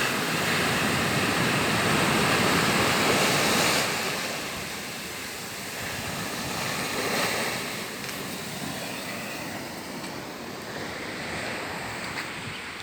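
Sea waves breaking and washing in, a continuous rush. It swells loudest over the first four seconds, eases, and rises again briefly about seven seconds in.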